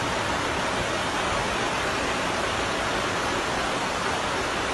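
Floodwater rushing past, a steady, even rush of water noise with no breaks.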